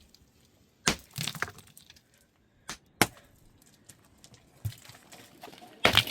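A series of sharp knocks and cracks, irregularly spaced, with near silence between them; the loudest comes near the end.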